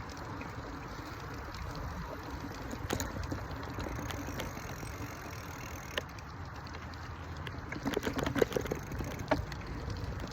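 Bicycle ride recorded on a phone carried by the rider: a steady rumble of tyres and moving air, with a few sharp clicks and a cluster of knocks and rattles near the end.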